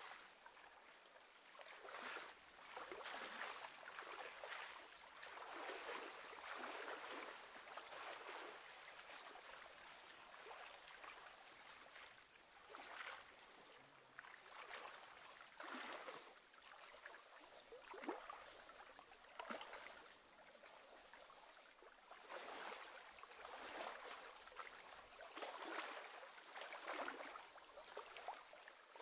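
Faint, irregular lapping and gurgling of small wind-driven waves against the lake shore, swelling and fading every second or two.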